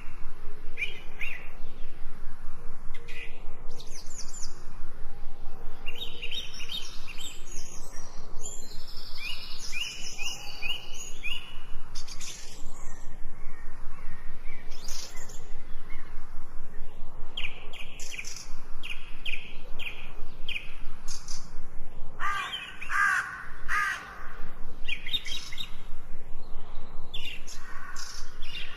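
Many birds calling and singing together: overlapping high chirps and trills throughout, with a louder, lower run of calls about three-quarters of the way through.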